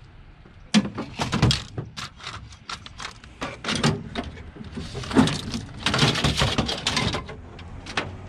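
Heavy metal pipe clanking and rattling as it is handled and loaded, in clusters of knocks with a dense rattle near two-thirds of the way through and a single knock near the end.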